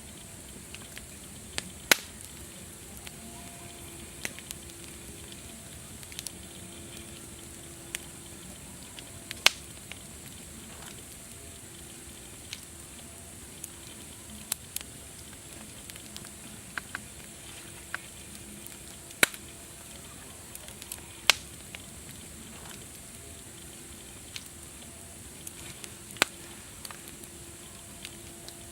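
Wood fire crackling: irregular sharp pops and snaps, a few much louder than the rest, over a steady hiss.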